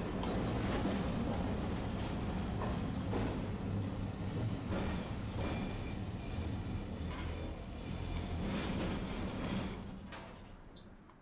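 Tosaden streetcar running on its rails: a steady low rumble of wheels and motor with scattered clicks and faint high squeals. The running noise dies away near the end, and a sharp click comes right at the end.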